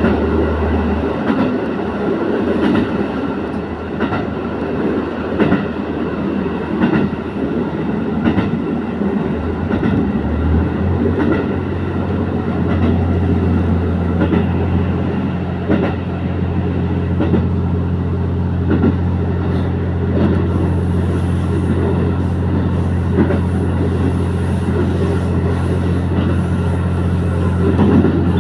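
Diesel railcar running along the line, heard from inside the train: a steady low engine drone that shifts in pitch a couple of times in the first half, with the wheels clicking over rail joints now and then.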